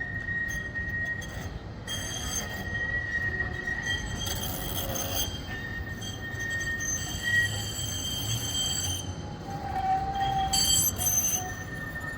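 Tram wheels squealing against the rails: a high, steady squeal that breaks off and comes back several times, over a low rumble.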